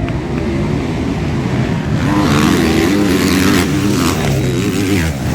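Motocross motorcycle engines revving, their pitch rising and falling, getting louder and busier about two seconds in.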